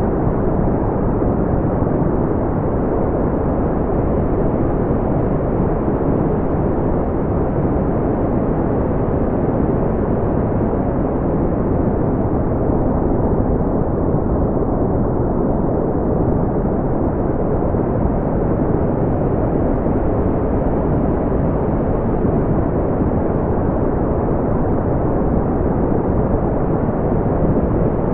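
Steady, deep brown noise: a smooth, low rumbling hiss with no tones or changes, its top end softened.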